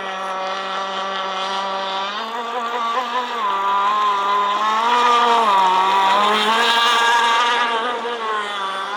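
Engine of a shovel-nose RC model powerboat running at high speed in one steady tone. From about two seconds in, its pitch rises and dips several times with the throttle, and it is loudest in the middle.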